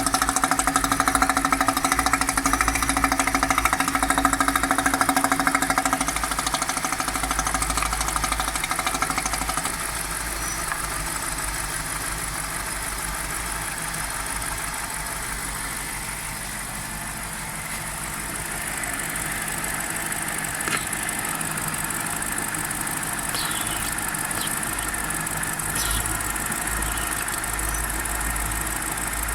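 BMW 545i E60's N62 4.4-litre V8 idling with the oil filler cap off, making a strange noise through the open filler. The sound is louder, with a steady hum, for the first several seconds, then settles lower, with a few light clicks near the end.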